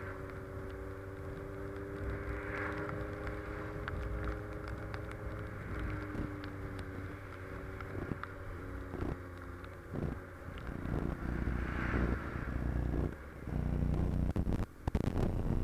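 Honda CB650F's inline-four engine running steadily at low revs on the move. From about ten seconds in, the engine tone gives way to a loud, uneven low rumble with sudden dips.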